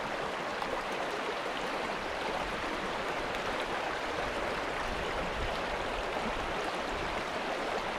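Steady rush of a shallow limestone creek's flowing water.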